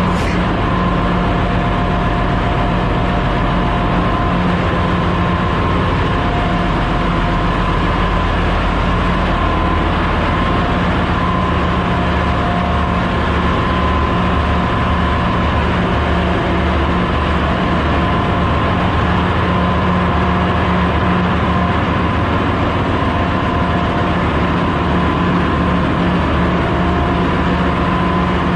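Ship's engine room machinery running: a loud, steady drone with several constant hum tones and no let-up.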